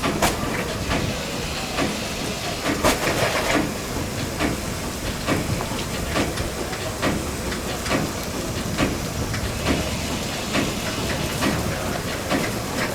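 A Shay geared steam locomotive running slowly with a steady hiss of steam and regular knocks, a little faster than one a second.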